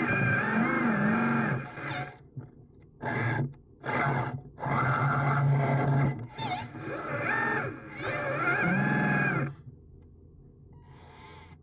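Small electric motors of radio-controlled construction models whining in several bursts with short pauses between, the pitch rising and falling as they work under changing load; it drops to a low hum for the last couple of seconds.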